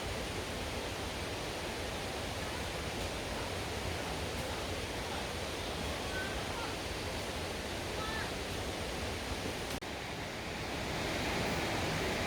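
Mountain valley stream rushing steadily, with a brief dropout about ten seconds in.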